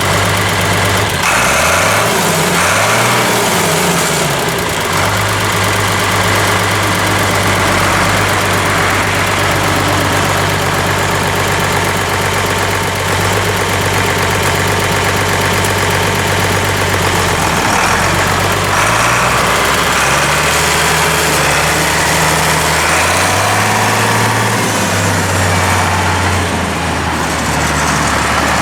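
1964 International Harvester Farmall 806 tractor engine running just after being started: its speed wavers for the first few seconds, then settles to a steady idle, with a couple of shifts in engine speed about two-thirds of the way through.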